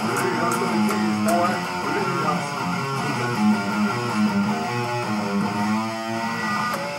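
Electric guitar playing continuously, with held low notes and moving melody lines.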